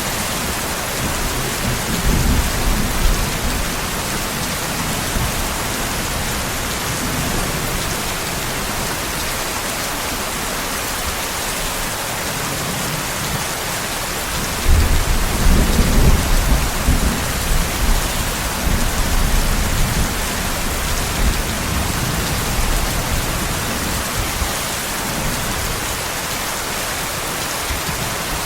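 Steady heavy rain hissing, with rolling thunder rumbling low underneath: a short rumble a couple of seconds in and a louder one starting about halfway through that fades over several seconds.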